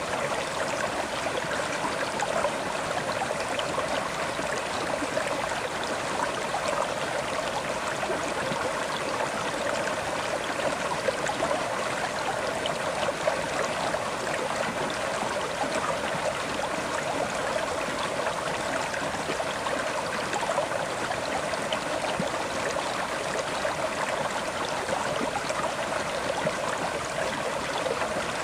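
River water flowing steadily over rocks, a continuous rushing and babbling, strongest in the middle of the range, with no breaks or changes.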